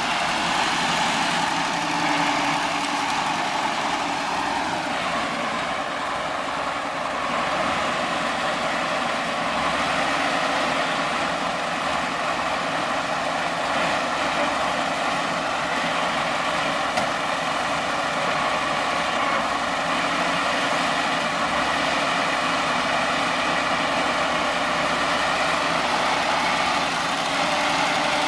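An engine running steadily, its pitch dropping slightly about four seconds in and then holding.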